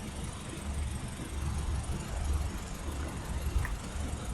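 Car engines idling in a low, uneven rumble.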